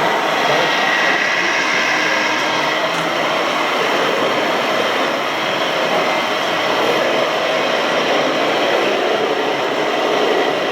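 Radio-controlled model machinery running: a steady whine of small electric motors and gearboxes over a dense hiss.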